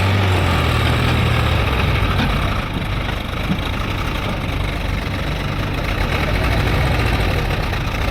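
Heavy diesel engine of a tractor or backhoe loader running steadily with a low hum, stronger for the first couple of seconds and then settling a little lower.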